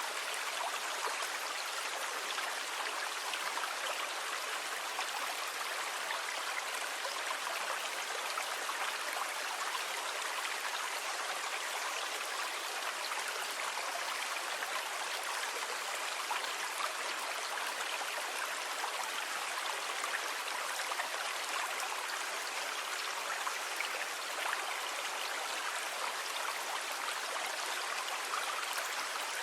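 Steady rushing water, an even hiss with no rise and fall of breaking waves and almost no low rumble.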